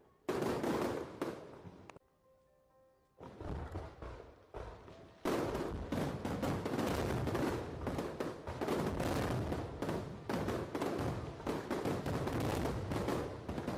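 Aerial fireworks going off: a few separate loud bangs, a brief lull of about a second in which faint held musical tones are heard, then from about five seconds in a dense, continuous barrage of rapid bangs and crackle.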